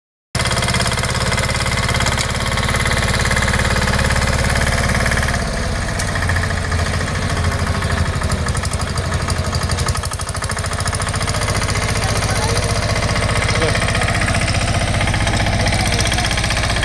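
Mini tractor's 10 hp Greaves single-cylinder diesel engine running steadily with a knocking beat; its note shifts about five seconds in and dips briefly around ten seconds.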